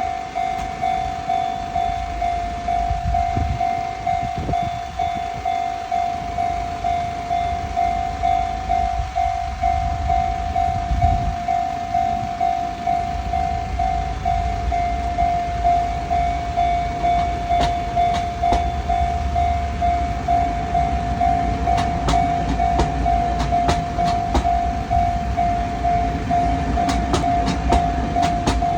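Taiwan Railway train backing slowly into a station with a low rumble. In the second half its wheels click repeatedly over rail joints. A steady warning tone pulses about one and a half times a second throughout.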